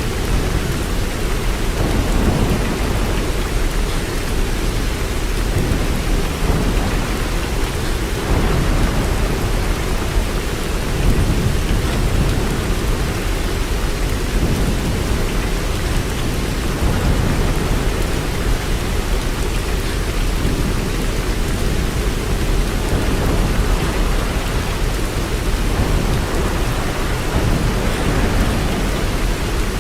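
Steady heavy rain: an even, continuous hiss with a deep rumble underneath that swells and fades without any sharp claps.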